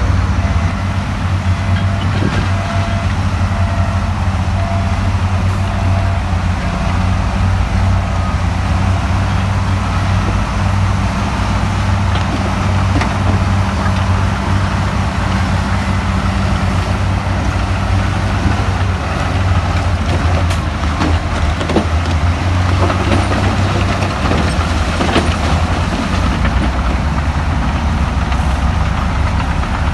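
Heavy diesel engine of earthmoving machinery running steadily, with a deep drone and a few scattered metallic knocks and clanks.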